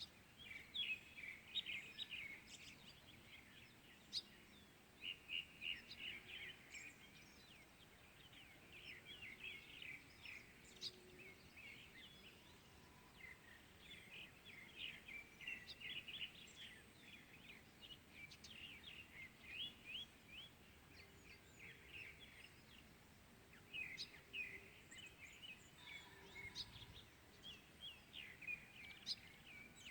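Small birds chirping and twittering, faint, in quick runs of short high notes that go on almost without a break.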